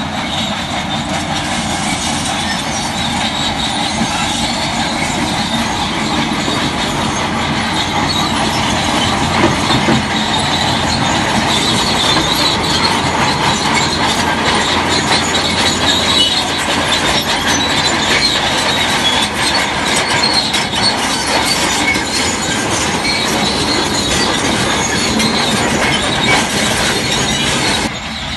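Crawler bulldozer (Shantui DH17C3) at work: its steel tracks squealing and clanking steadily over the diesel engine's noise.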